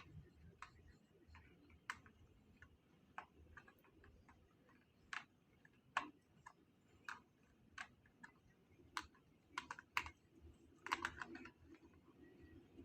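Faint, irregular clicks and light taps of utensils and food containers handled during eating, with a quick flurry of clicks about eleven seconds in.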